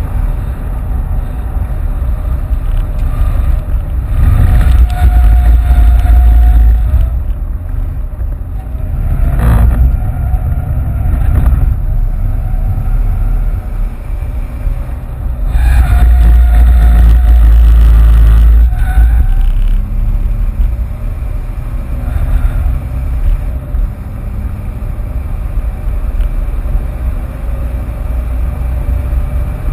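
Ford Fiesta 1.6 TDCi turbodiesel engine and road noise heard from inside the cabin while driving on track. It swells louder twice for a few seconds under acceleration, and there is a single knock about ten seconds in.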